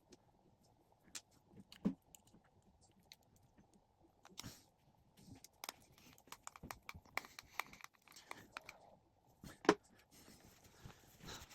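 Small irregular clicks, taps and knocks of a spinning fishing reel and its parts being handled during repair, with one sharper knock near the end.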